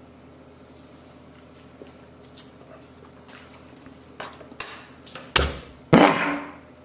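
Cutlery and dishes clinking: a few faint ticks, then four sharper clinks in the last three seconds, the last one loudest and ringing on briefly.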